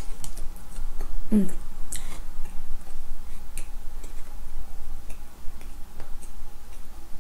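Close-miked chewing of a mouthful of soft chocolate-glazed doughnut: scattered wet mouth clicks and smacks, with a brief hummed vocal sound about a second and a half in.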